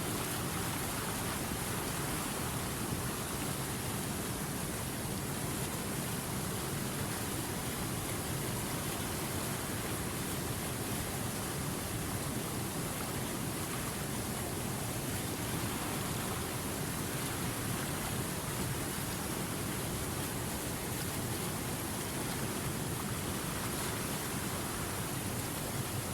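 River water rushing steadily over rapids and small falls, an even unbroken hiss.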